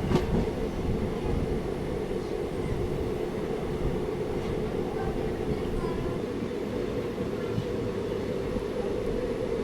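Passenger train running along the rails: a steady rumble with a constant drone, and one sharp knock right at the start.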